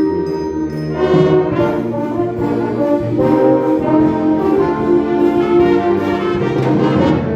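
Wind band playing, with the brass section carrying a full chordal passage that comes in about a second in.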